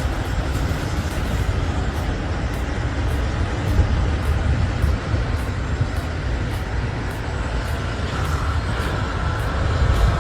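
Heavy vehicle engine running steadily: a low rumble under a noisy haze of road and traffic noise.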